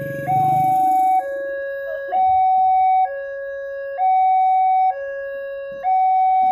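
Railway level-crossing warning alarm sounding: an electronic two-tone signal that alternates a higher and a lower steady tone, each held for about a second, over and over, warning that a train is approaching. A low rumble fades out in the first second or so.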